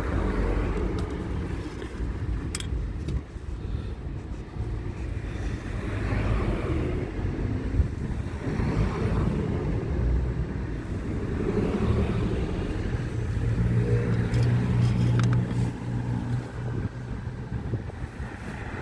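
A car engine running steadily, its pitch rising and falling a little in places.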